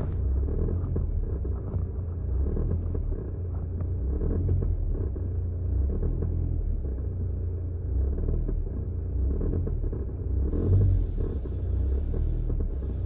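2017 Nissan Altima engine running in reverse with a low rumble and an uneven rattle over it. The owner traces the rattle to a worn motor mount on the passenger side.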